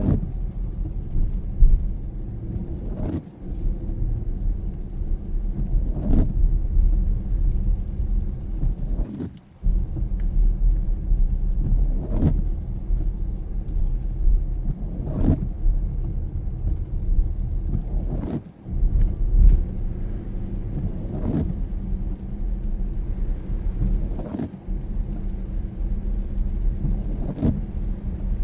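Car driving on a wet road, with a steady low rumble of engine and tyres. A brief swish comes evenly about every three seconds, like windshield wipers sweeping in the rain.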